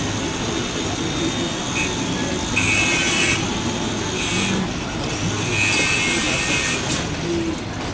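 Steady rumble of engine and traffic noise around an airport, with brief high-pitched tones coming and going several times.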